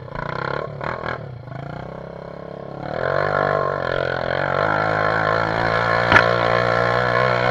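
Trail dirt bike engine pulling hard up a hill, growing louder about three seconds in and then holding high revs with the pitch wavering. A sharp knock sounds about six seconds in.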